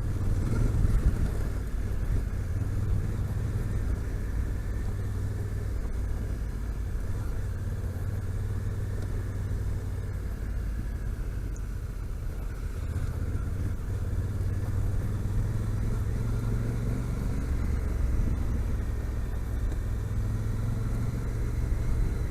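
Honda Africa Twin's parallel-twin engine running as the bike rides a rough road, with wind and road noise; the engine eases off about ten seconds in and picks up again a couple of seconds later.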